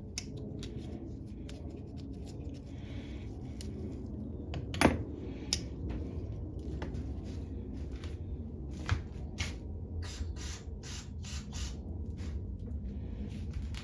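Scattered small clicks and taps of metal carburetor parts being handled and fitted back together, with a sharper knock about five seconds in and another near nine seconds, over a low steady hum.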